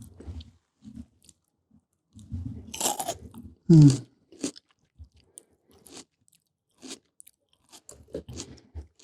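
Close-miked chewing of raw red bell pepper: crisp crunches and wet mouth sounds in irregular bursts with short pauses between bites.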